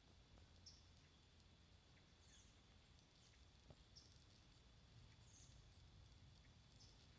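Near-silent woodland with faint, short high chirps from small birds, about one every second or so, over a soft low rumble.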